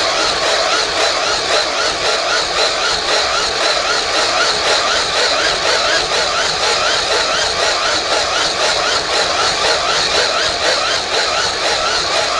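Hand-cranked blower whirring steadily with a rhythmic, squeaky pulse as it is turned, forcing air into a roaring wood fire.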